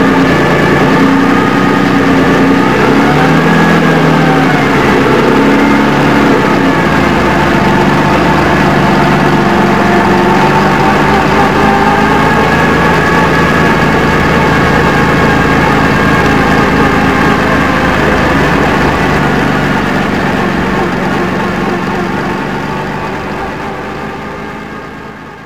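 Jaguar E-type Lightweight racer's straight-six engine running steadily near idle, its revs briefly rising and falling a few seconds in. The sound fades out near the end.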